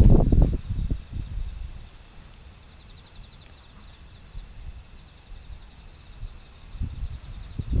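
Typhoon wind gusts buffeting the microphone with a low rumble in the first second, easing to a lull, then gusting again near the end. In the lull, faint insect chirping can be heard.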